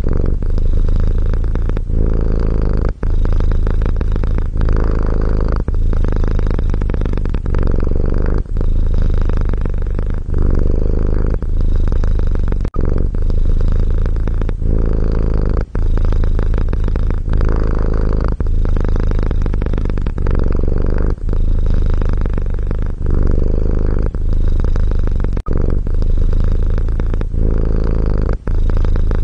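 Domestic cat purring close up: a steady low rumble with short breaks every second or two as the purr switches between breathing in and breathing out.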